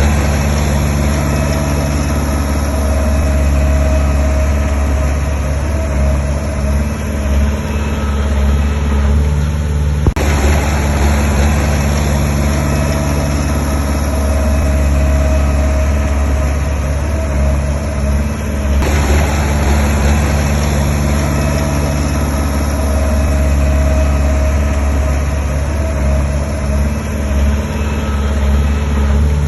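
Diesel engine of heavy earthmoving machinery running steadily with a low, even hum. The sound changes abruptly twice, about a third and two thirds of the way through.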